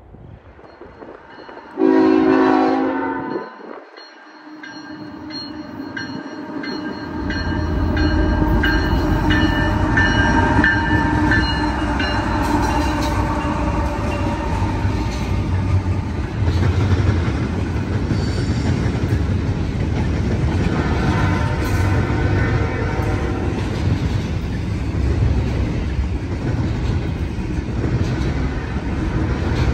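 Air horn of a Canadian National GE ET44AC freight locomotive sounds one short blast about two seconds in. The train then arrives: the locomotives' 12-cylinder diesel engines build up and the intermodal cars rumble and clack steadily over the rails.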